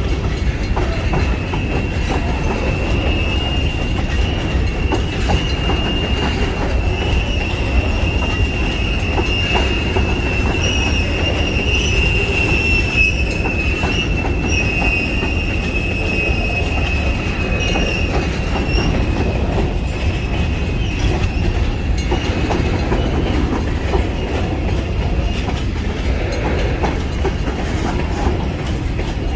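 Freight train cars rolling past with a steady low rumble, while a high wheel squeal holds for most of the first twenty seconds, then fades.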